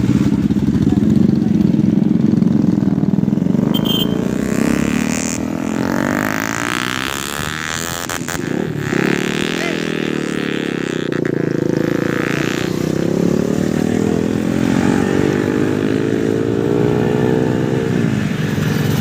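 Motorcycle engine running on the move, its pitch rising and falling several times, with a sudden drop near the end.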